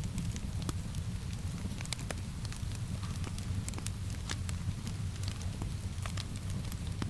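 Crackling wood fire in a fireplace: irregular sharp pops and snaps scattered over a steady low rumble, with a soft rain hiss beneath.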